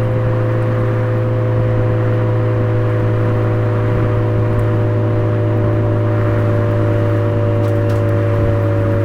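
Suzuki Swift Sport ZC33S's 1.4-litre turbocharged four-cylinder engine and Fujitsubo aftermarket exhaust running at a steady engine speed, a constant-pitch drone that holds unchanged.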